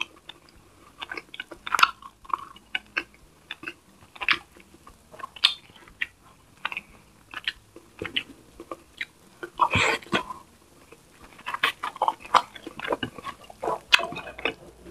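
Close-miked eating sounds: irregular chewing and mouth smacks while fish is picked apart by hand, with a louder, longer noise about ten seconds in.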